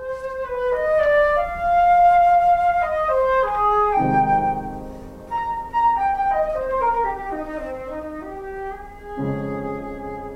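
Flute playing a melody that moves up and down note by note, joined by lower held notes about four seconds in and again near the end.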